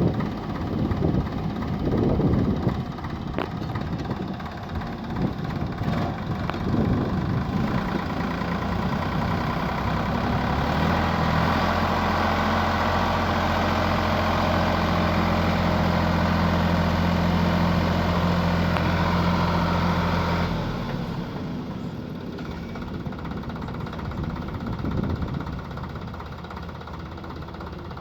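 Heavy diesel engine of a JCB or tractor running. It grows louder and holds a steady note from about ten seconds in for some ten seconds, then drops back to a lower level.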